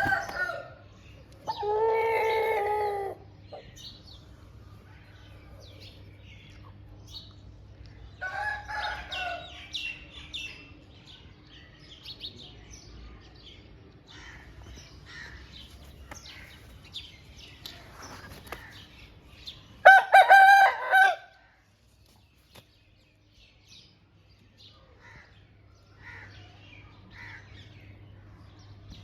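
Aseel rooster crowing three times, the last crow the loudest, about two-thirds of the way through, with softer clucks and chirps in between.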